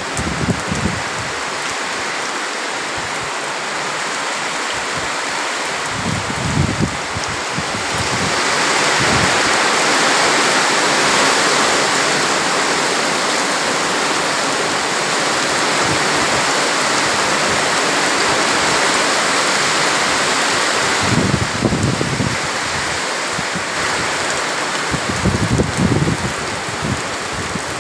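Heavy rain pouring steadily; it grows heavier about eight seconds in and eases a little later on. A few brief low rumbles break through.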